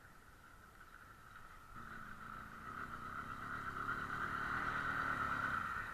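Motorcycle engine running, coming in about two seconds in, growing louder and then dropping away near the end, over a steady high hum; the bike starts but runs badly.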